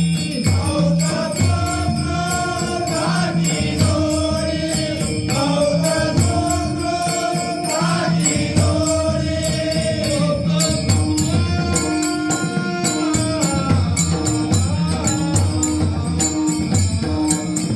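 Marathi devotional abhang music: a pakhawaj drum keeps a steady rhythm under long, gliding melodic notes, with small hand cymbals ringing on the beat.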